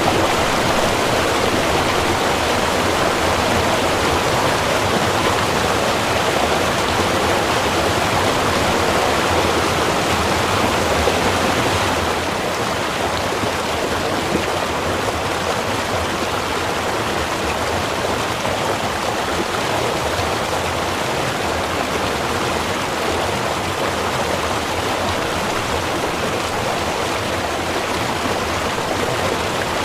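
A small river running: a steady, dense rush of flowing water that drops slightly in level about twelve seconds in.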